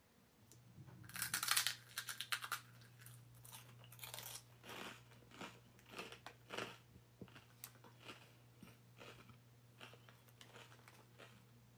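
A person biting into a crunchy cheese ring snack (rosquillas), loudest with the first crunches about a second in, then chewing it with a run of irregular, fainter crunches.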